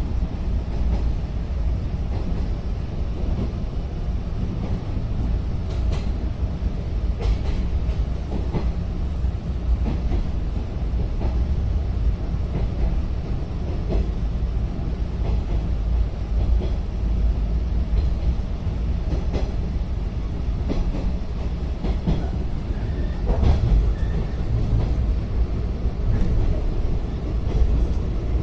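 Cabin running noise of a JR 115-series electric train car in motion: a steady low rumble with scattered clicks of the wheels over the rail joints.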